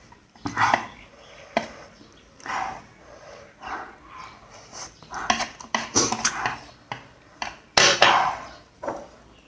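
Eating noodles close to the microphone: an irregular run of slurps and chewing, with utensils clicking against the bowl. The longest and loudest slurp comes about eight seconds in.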